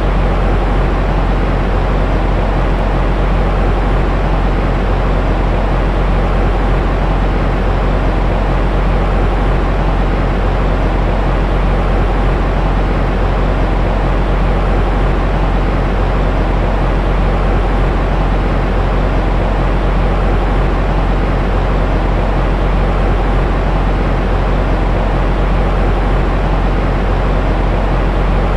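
Steady, unchanging white noise for infant sleep, deep and muffled rather than hissy, with most of its strength in the low end.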